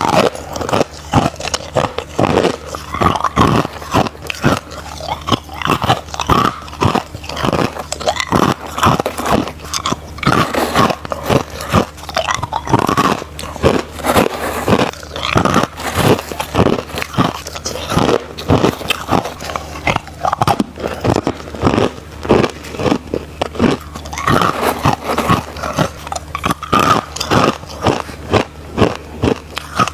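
Crushed ice being bitten and chewed up close, a rapid, irregular run of loud crunches.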